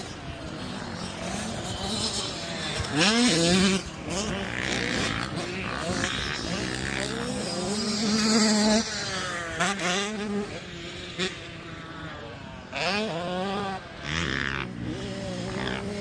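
85cc two-stroke motocross bikes revving on the track, with a buzzing engine note that repeatedly climbs and drops as the riders accelerate, shift and back off. Several engines overlap, and the loudest surges come about three and about eight and a half seconds in.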